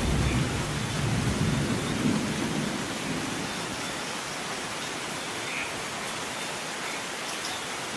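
Steady rain hiss, with the tail of a thunder rumble dying away over the first three seconds or so.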